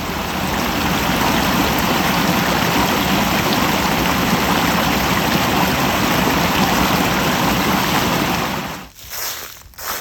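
A steady, even rushing noise that cuts off suddenly about nine seconds in, followed by a few separate crunching steps.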